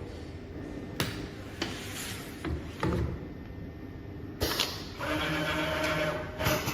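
Automatic template sewing machine at work: a steady hum with several sharp clicks and knocks from its mechanism, then a steady, louder pitched motor sound from about five seconds in.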